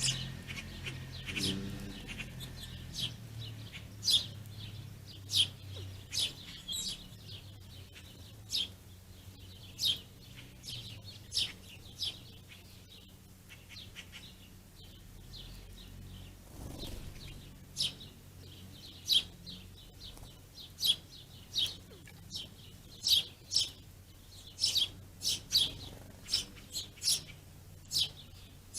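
Small songbirds chirping: short, high, sharp chirps repeated about once a second, coming faster and more often toward the end.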